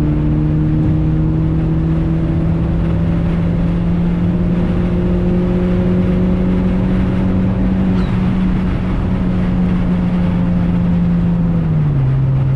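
Turbocharged 2.0-litre Ecotec four-cylinder of a Chevrolet HHR SS, heard from inside the cabin, accelerating in gear with its note climbing slowly. Near the end the note drops as the five-speed is shifted up. This is a tuning pull being logged with a scan tool.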